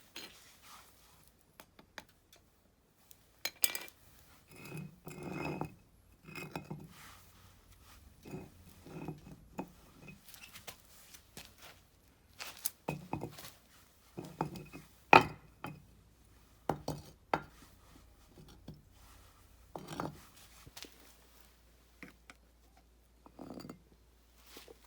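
Irregular metallic clinks and knocks, some with a short ring: hard metal pieces being handled and set down on a hard surface.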